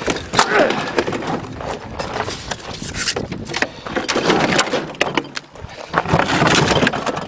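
Repeated knocks, clatter and creaks from the panels of a bar fridge wrecked by an airbag blast as it is handled, with voices over them.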